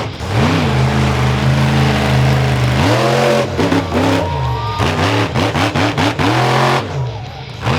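Monster truck engine revving hard: held near full throttle for about two and a half seconds, then dropping into a string of quick throttle blips that rise and fall in pitch, easing off near the end.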